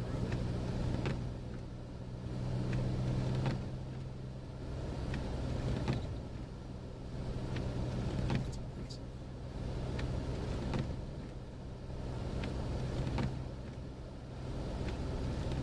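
Jeep Wrangler engine running with a steady low hum heard from inside the cabin, under a rushing noise that swells and fades about every two seconds, with a few scattered clicks.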